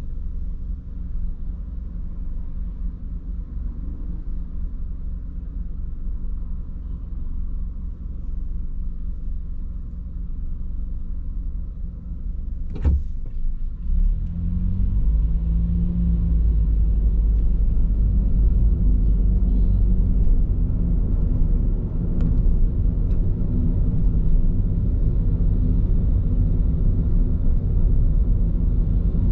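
Road and tyre rumble heard inside a moving car's cabin, running on Bridgestone Regno tyres. A single sharp knock comes about 13 seconds in, and after it the low rumble is louder and stays so.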